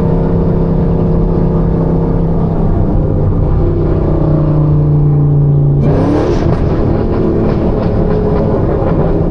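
Camaro ZL1's supercharged V8 running at a steady drone while driving, then revving up sharply on a burst of throttle about six seconds in.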